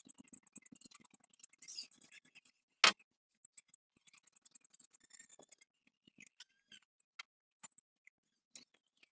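Rapid runs of light mechanical ticking, twice, with one sharp loud click about three seconds in and scattered small clicks near the end.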